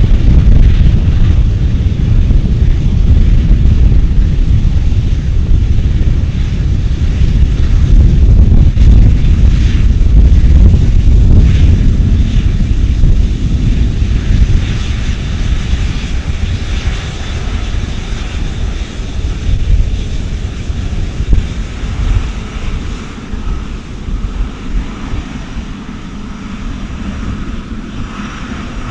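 Airplane engines passing, a deep steady rumble that is loudest over the first half and gradually fades away.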